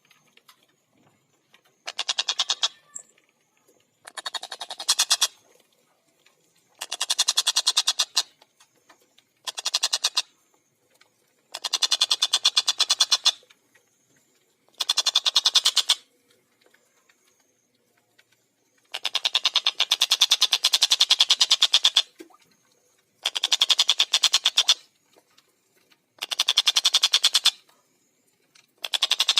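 Tengkek buto kingfisher calling in fast chattering runs of sharp, rapidly repeated notes. Each run lasts one to three seconds, with short silent pauses between them, about ten runs in all.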